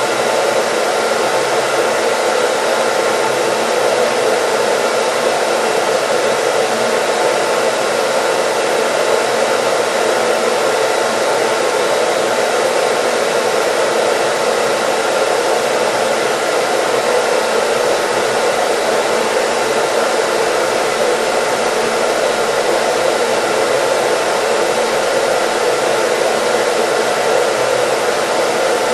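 Hair dryer running continuously with a steady, even rush of air and motor noise that never changes.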